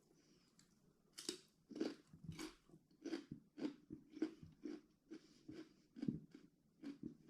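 A person chewing food close to the microphone, with a crunchy, wet bite about twice a second, starting about a second in.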